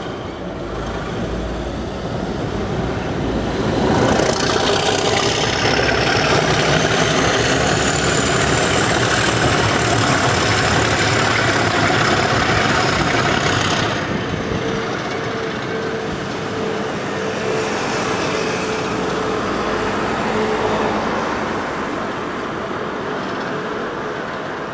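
Network Rail test train topped and tailed by Class 73 electro-diesel locomotives passing on the track: wheel-and-rail rumble builds and is loudest for about ten seconds, with a high whine that rises and falls. It then eases off, leaving a steady hum for several seconds as the rear locomotive goes by.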